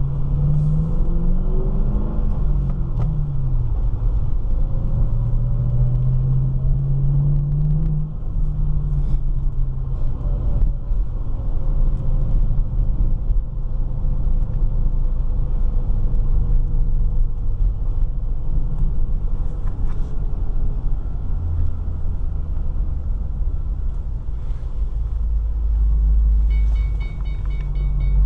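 Ford Mustang GT's 4.6-litre V8 driving, heard from inside the car: the engine note rises and falls with acceleration and gear changes, then settles into a deeper, steadier rumble. A seatbelt warning chime starts near the end.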